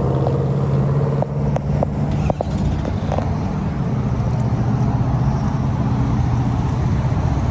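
Motor vehicle engine running steadily with a low hum, with a few light clicks in the first few seconds.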